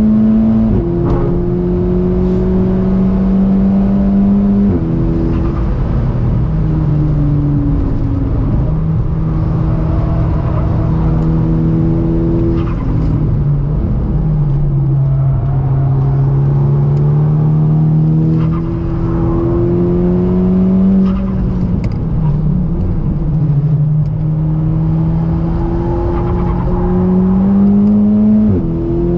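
Volkswagen Golf 6R's turbocharged 2.0-litre four-cylinder engine pulling hard at speed, its pitch climbing slowly and then dropping sharply at each gear change, several times over.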